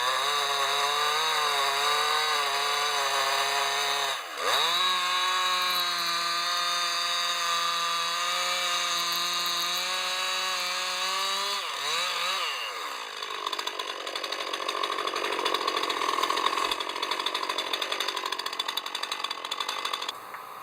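Two-stroke chainsaw running steadily, its pitch dipping and climbing back twice. It then turns to a rougher, noisier sound for the last several seconds and cuts off abruptly near the end.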